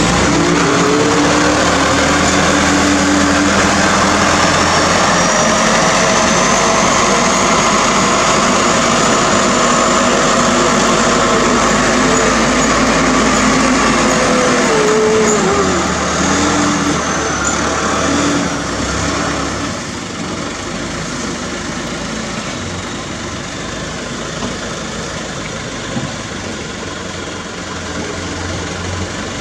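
Loaded Hino truck's diesel engine running, its pitch rising and falling over a broad road noise. It drops in loudness about two-thirds of the way through.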